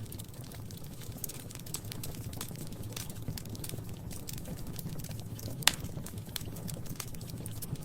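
Wood fire crackling in a fireplace: irregular small crackles over a low steady rumble, with one sharp, louder pop about two-thirds of the way through.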